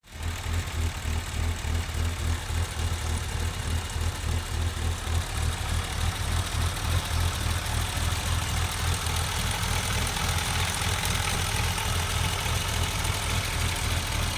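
1991 BMW 325ix's 2.5-litre straight-six idling rough, its exhaust sputtering and surging in an uneven pulse. The owner cannot find the cause despite a new air intake boot, coolant sensor and clutch fan.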